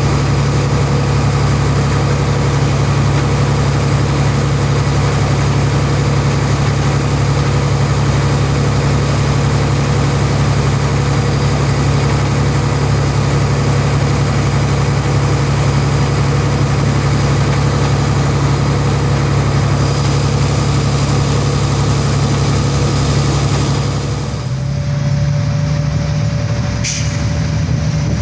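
Heavy dump truck's diesel engine running steadily with a loud low hum. About four seconds before the end the sound changes, a steady whine comes in, and there is one short sharp sound shortly after.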